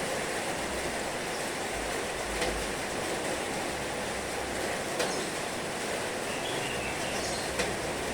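Heavy rain falling steadily, a dense even hiss with a low rumble beneath, and a few sharp drop ticks standing out.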